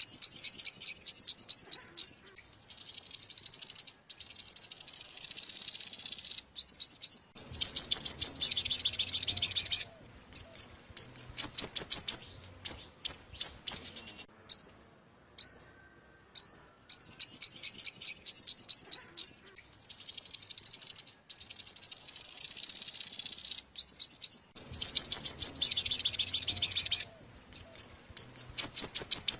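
Sunbird song, the 'five-coloured sunbird' (chim hút mật 5 màu) of Vietnamese bird keepers, played as a trapping lure: fast runs of high, sharp chirps and rattling trills in bursts with short gaps. The same sequence of phrases repeats about every 14 seconds as the recording loops.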